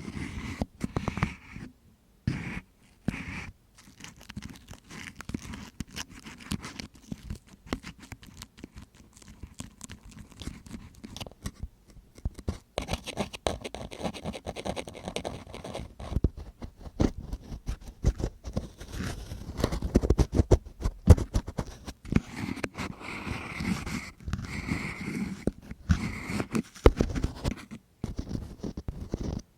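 ASMR ear-cleaning sounds: an ear-cleaning tool scratching and scraping close against the microphone in dense, irregular strokes, with a few brief pauses.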